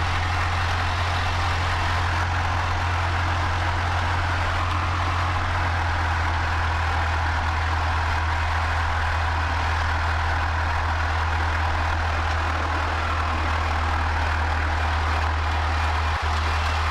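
Cessna 152's four-cylinder Lycoming O-235 piston engine running steadily at low power while the plane taxis, a constant low drone.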